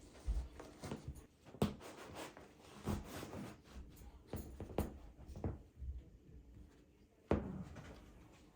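Household objects being handled: a string of light knocks and clicks, with two sharper knocks about a second and a half in and near the end.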